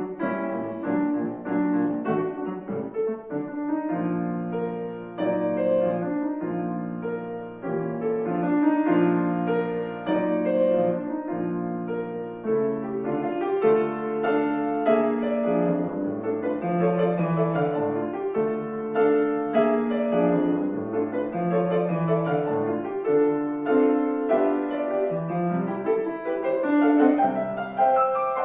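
Acoustic piano playing a classical piece, with a continuous flow of struck notes and chords.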